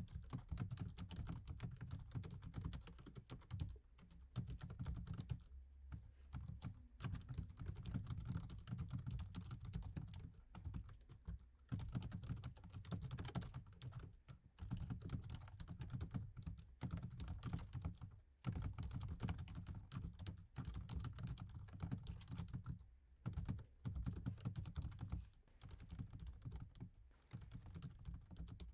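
Laptop keyboard being typed on fast and continuously, a quick run of soft key clicks broken by a few brief pauses.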